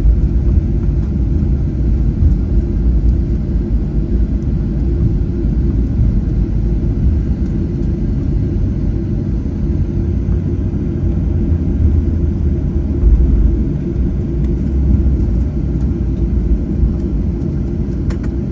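Steady low rumble inside the cabin of a Boeing 737-800 taxiing, its engines at low power and its wheels running over the taxiway.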